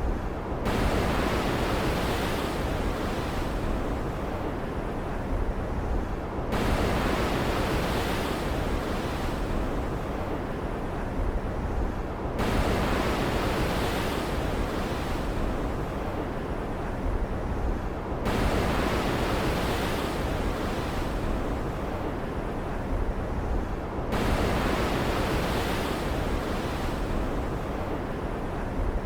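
Stormy ocean ambience: a wave surges in about every six seconds, each a sudden rush of hiss that fades away, over a steady low rumble of sea.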